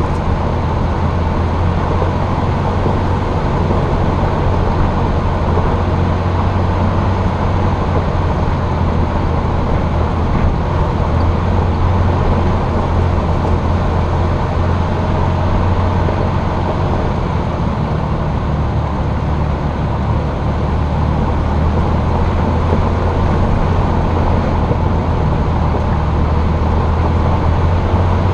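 Jeep engine running at a steady low drone while driving, mixed with steady road and wind noise. The sound is picked up by a microphone mounted on the Jeep's hood.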